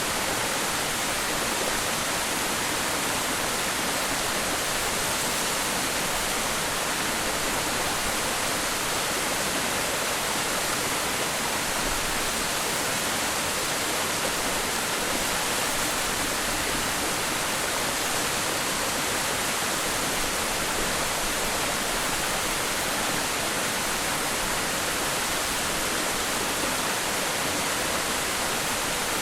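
Waterfall: a steady, unbroken rush of falling water, with most of its sound in the hiss rather than the low rumble.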